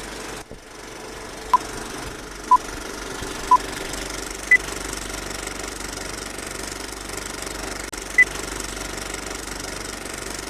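Electronic beeps in a countdown pattern: three short beeps at one pitch about a second apart, then a higher beep, and another higher beep a few seconds later. They sound over a steady machine-like rumble.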